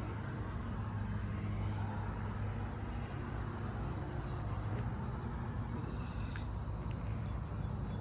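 Peterbilt 389 semi truck's diesel engine idling steadily, a low even hum.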